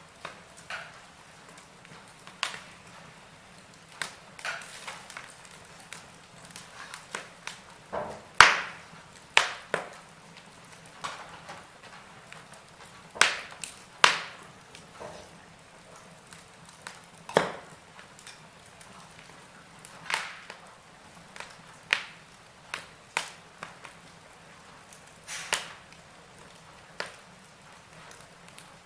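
Wood fire crackling in a fireplace: irregular sharp pops and snaps of burning wood. The loudest pops come about eight seconds in and again between about thirteen and seventeen seconds.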